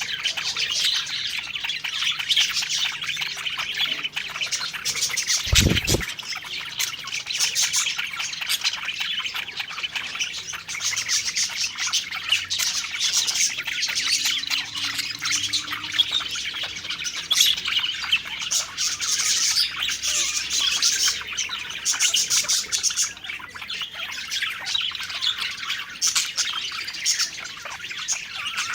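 A group of budgerigars chirping and warbling continuously, with dense overlapping high chirps and occasional squawks. A brief low thud comes about six seconds in.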